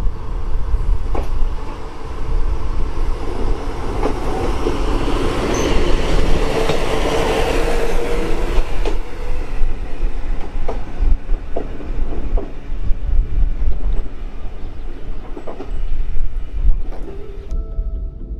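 Wakasa Railway diesel railcar running past on the single track, loudest a few seconds in as it goes by, with scattered clacks as the wheels cross rail joints. Music comes in near the end.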